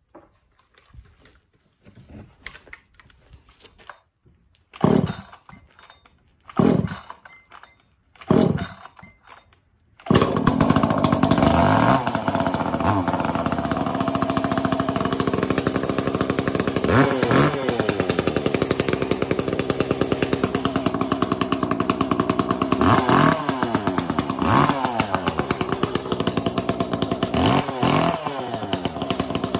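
A chainsaw with a hammer-headed exhaust pipe being started cold. There are three short bursts as the starter is pulled, then about ten seconds in it fires and keeps running loudly, with the throttle blipped several times so the pitch rises and falls.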